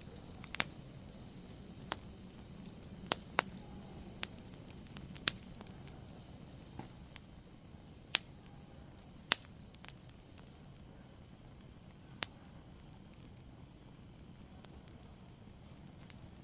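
Wood fire burning in a fireplace: sharp, scattered pops and crackles over the low, steady rush of the flames. There are about nine loud pops, most of them in the first ten seconds, and only faint crackling after that.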